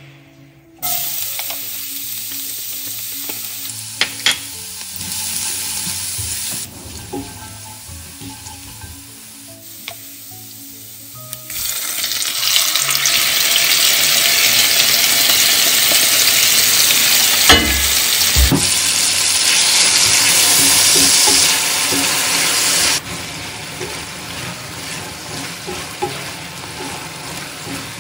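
Minced garlic sizzling in hot butter and oil in an enamelled cast-iron pan. Partway through, the sizzle turns much louder as chunks of marinated beef are added and stirred, with a few knocks of the spoon against the pan.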